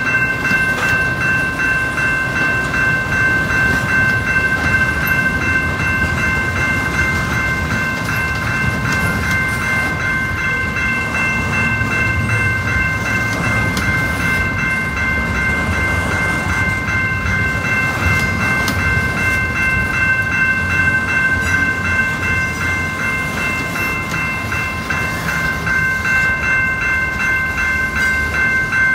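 Freight train rolling past with a continuous low rumble and faint rhythmic clatter from its cars. Several steady high-pitched tones are held at a constant pitch throughout.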